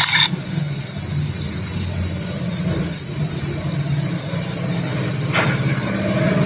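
Night-time chorus of crickets: a steady high trill with a faster, evenly pulsed chirping above it.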